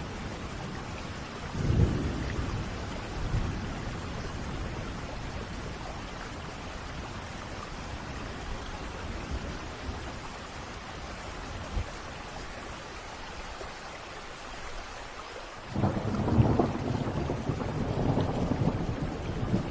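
Steady rain with rolling thunder: a rumble about two seconds in, then a louder, longer peal of thunder starting near the end.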